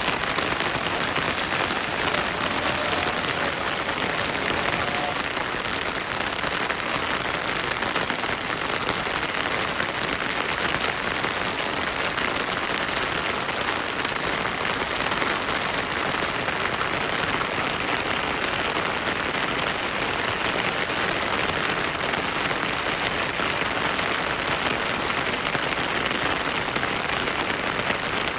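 Heavy rain falling steadily, a dense even hiss of countless drops with no break. The highest part of the hiss eases slightly about five seconds in.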